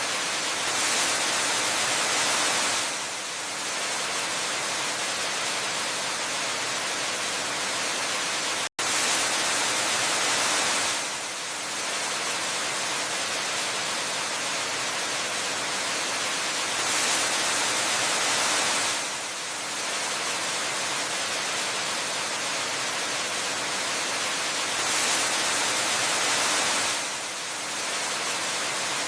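Steady rushing hiss of a waterfall, bright and evenly spread like white noise. It swells a little louder for about two seconds roughly every eight seconds, and cuts out for an instant about nine seconds in.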